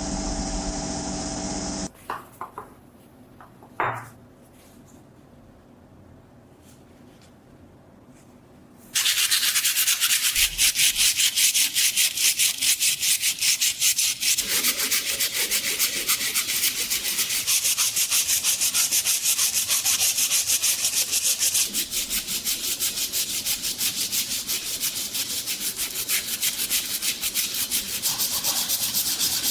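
Hand sanding of the rusted knife's steel: quick, even back-and-forth rubbing strokes of abrasive paper, starting about nine seconds in. Before that, a steady motor hum cuts off about two seconds in, followed by a few light knocks.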